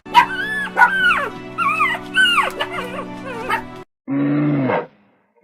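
A run of short, high animal calls that bend up and fall in pitch, over steady background music. After a brief gap, one lower, even-pitched animal call comes about four seconds in.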